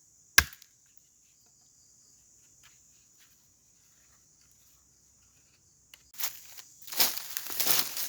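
A single sharp chopping strike on wood just under half a second in, then a faint steady high drone of forest insects. From about six seconds in, loud irregular rustling and crunching of dry leaves and brush, like someone moving through leaf litter.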